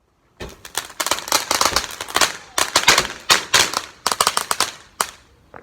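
Firework going off in a rapid, irregular string of crackling bangs for about four and a half seconds, ending with one last crack near the end.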